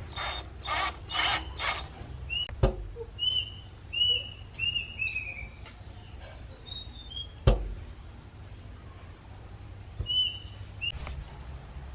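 Birds calling: four harsh calls, then a run of short chirps, some stepping down in pitch one after another. Two sharp knocks, the loudest sounds, come about two and a half and seven and a half seconds in, as the small hinged wooden door is shut against its frame.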